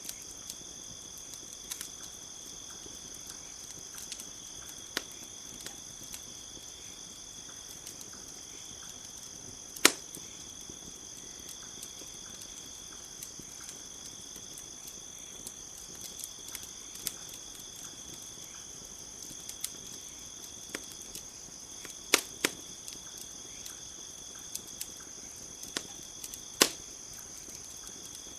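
Campfire crackling, with scattered sharp pops and a few louder snaps, over a steady high chirring of crickets.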